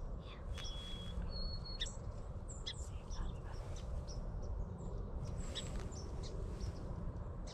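Small birds chirping in short, scattered high calls, with a couple of brief whistled notes in the first two seconds, over a steady low rumble.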